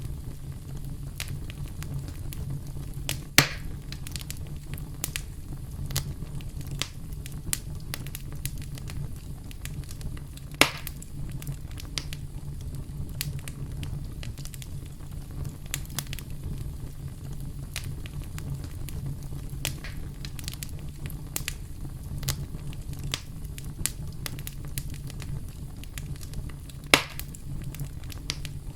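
Campfire burning, with a steady low rumble of flames and frequent sharp crackles, and three louder pops from the burning wood: about three seconds in, about ten seconds in, and near the end.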